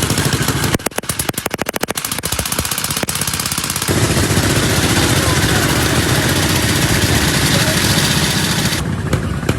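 A loud open-exhaust vehicle engine firing in rapid, distinct pops for about three seconds, then running hard with a steady, loud blare from about four seconds in.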